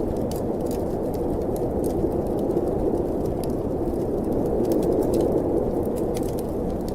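Snowstorm wind blowing steadily with a wood fire crackling in a fireplace: a low, even whoosh with scattered sharp pops and snaps over it.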